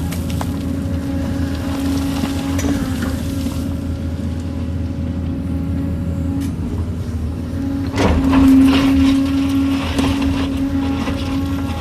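Kobelco excavator running steadily with a low engine drone and a held hum. About eight seconds in it works harder and gets louder, with a short clatter.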